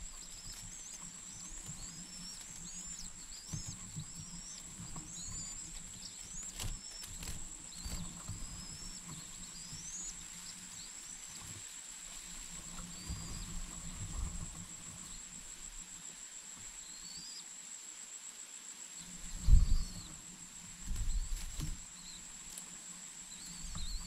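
Birds giving short, high, thin chirps, many in the first half and fewer later, over a steady high-pitched whine. Two low thumps come near the end.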